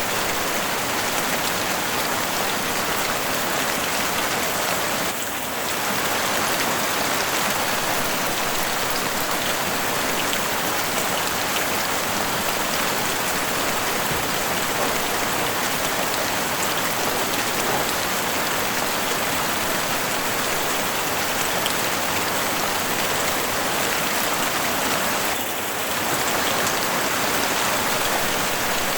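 Heavy rain falling steadily on a house roof, a dense even hiss. It eases slightly for a moment twice: about five seconds in and near the end.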